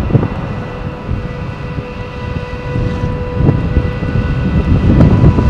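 Class Sr2 electric locomotive pulling away with its passenger train: a low rumble of the train that grows steadily louder as it comes closer, with a few knocks from wheels over rail joints and a steady hum.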